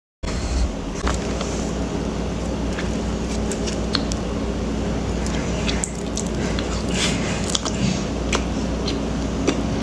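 Close-miked eating of a donut: soft squishy bites and chewing with scattered sharp mouth clicks over a steady low hum.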